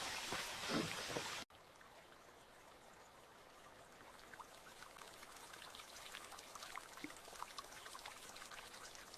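A louder hiss with a few thumps that cuts off abruptly about a second and a half in. Then faint, scattered patter of water drops, like light rain or dripping.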